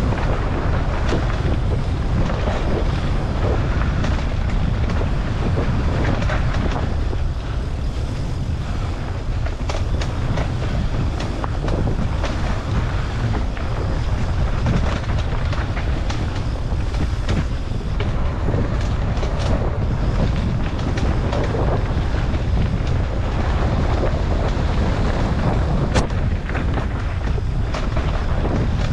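Wind buffeting the microphone on a moving ride down a dirt trail, a steady low rumble with scattered sharp clicks and rattles.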